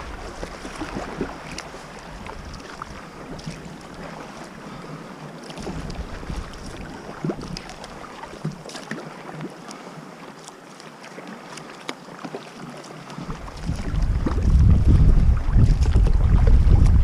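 Water splashing and lapping against a sea kayak, with small scattered splashes, while wind buffets the microphone, heavily so from about three-quarters of the way through.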